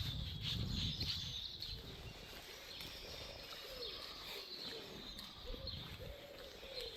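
Birds chirping and singing, with a series of low, arching calls in the second half, over a low rumble in the first second or so.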